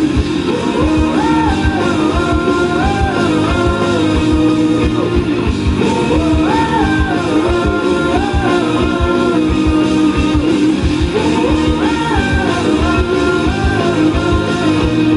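Live rock band playing an instrumental passage with drums, guitars and bass, a melodic line repeating the same rising-and-falling phrase over a steady beat.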